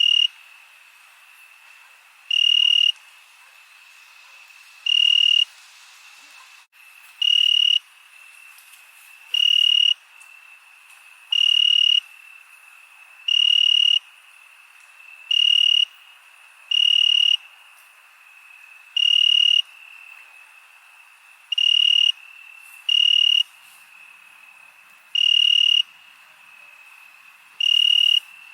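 A cricket chirping loudly at regular intervals, one high, even chirp about every two seconds. Under it runs a steady, faint trill of more distant insects.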